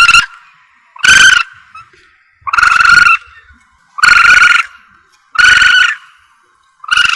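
Asian palm civet (musang) calls played as a hunting lure: short rasping calls repeated about once every second and a half, some longer than others.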